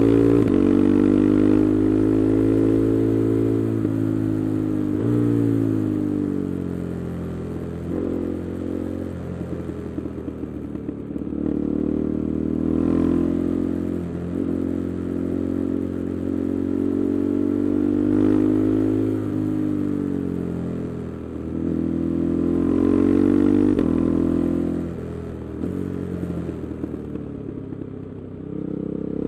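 KTM 390 Adventure's single-cylinder engine through an aftermarket Arrow exhaust with the resonator removed, pulling up in revs and dropping back again and again as the bike is ridden.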